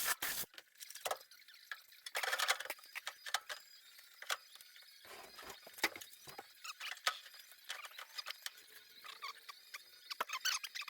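Welder crackling and sputtering in short, irregular bursts, welding up pinholes along a sheet-metal cowl panel seam.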